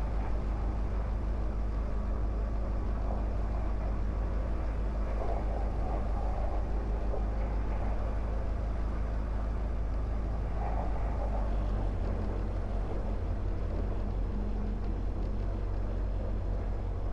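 Diamond DA20 light aircraft's piston engine and propeller running steadily at low power, heard from inside the cockpit. Its low hum shifts slightly about twelve seconds in.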